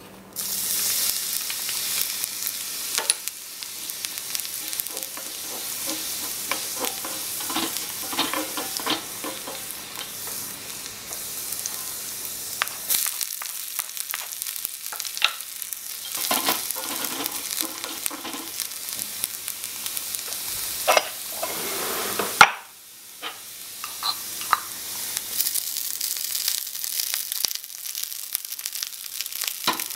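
Chopped garlic hitting hot oil in a miniature aluminium wok, sizzling at once about half a second in and frying steadily. A small wooden spatula stirs and taps against the metal with many light clicks. There is a sharp knock and a brief lull about two-thirds through.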